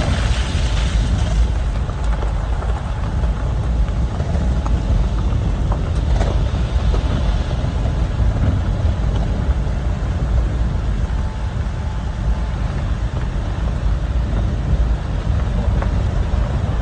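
Vehicle engine running steadily under way, a continuous low rumble.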